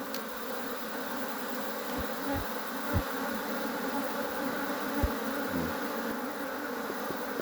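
Agitated honeybees buzzing in a steady, dense hum around an opened, freshly smoked hive: the colony is active and defensive. A few low thumps come through a couple of times.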